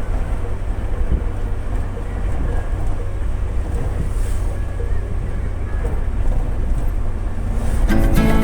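Wind buffeting the microphone over the low rumble of a vehicle on the move. Guitar music comes in loudly near the end.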